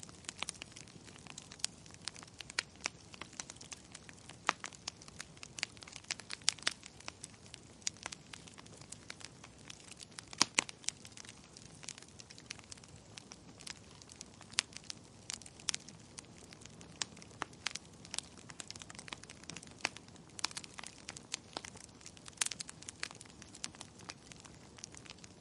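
Wood fire crackling in a fireplace: irregular sharp pops and snaps over a faint low hiss of burning.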